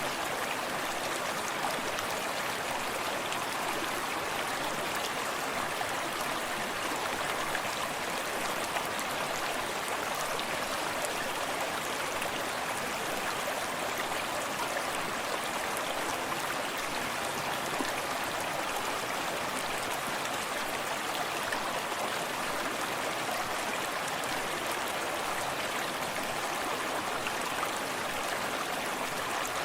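Forest stream running steadily over rocks, a continuous rushing of flowing water with small splashes and trickles.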